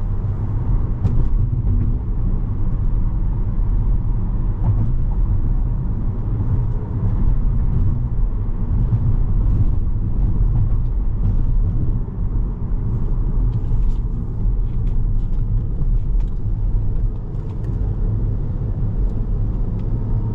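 Cabin drone of a 2017 Volkswagen Jetta SE's 1.4-litre turbocharged four-cylinder engine and tyres while driving: a steady low rumble.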